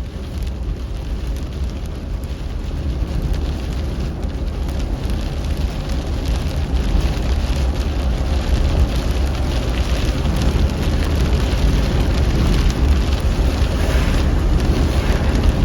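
Rain pattering on a car's roof and windshield over the low rumble of the car driving, heard from inside the cabin; it grows slightly louder through the stretch.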